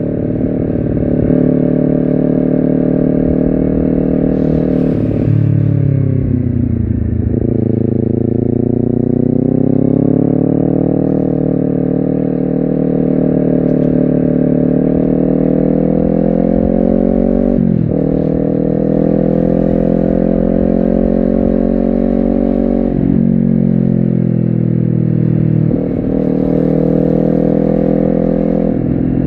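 Honda CBR250RR motorcycle engine under way, heard from the rider's seat, its pitch climbing as it pulls, dropping sharply and recovering with each gear change about a third of the way in, near the middle, and several times near the end.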